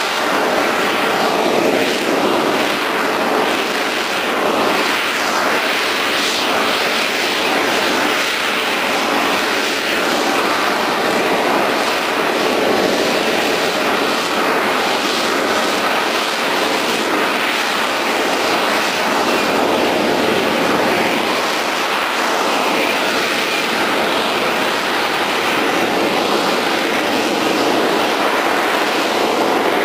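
Military aircraft engine noise, a loud, steady rushing sound that holds nearly even for the whole stretch.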